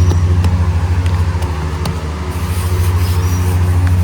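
A steady low engine hum, like an idling motor vehicle, with a few faint clicks over it.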